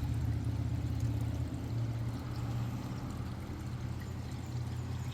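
A steady low motor hum with an even wash of noise over it, cutting off suddenly at the end.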